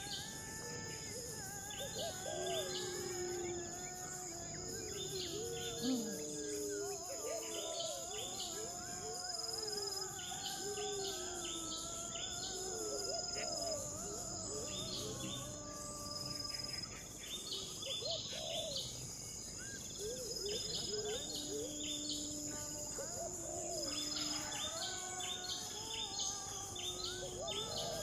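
Outdoor ambience: a steady high-pitched insect drone with many short repeated chirps, and lower wavering, gliding calls or tones coming and going.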